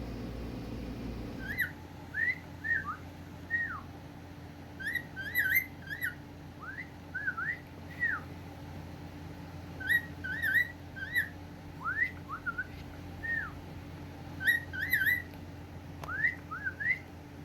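Male cockatiel whistling a song of short notes that glide up and down, with the same little phrase coming back several times.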